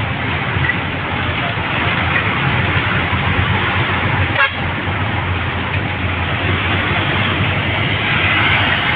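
Steady road noise of a vehicle travelling along a highway: a continuous engine hum under the rush of tyres and wind.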